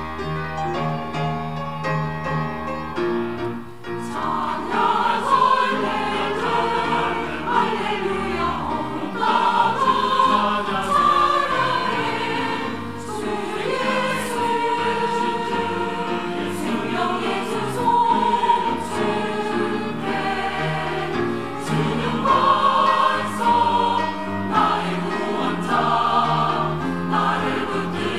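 Church choir singing a gospel anthem with instrumental accompaniment. It opens with a short instrumental passage, and the choir's voices come in about four seconds in.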